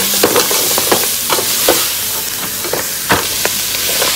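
Onion and garlic sizzling in hot olive oil as pieces of mud crab go into the metal pot and are stirred with a wooden spatula, with knocks of shell and spatula against the pot, the loudest about three seconds in.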